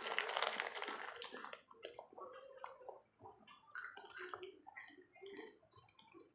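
Close-up eating sounds: a noisy rustle for about the first second and a half, then irregular wet chewing and mouth smacks as a snack is eaten.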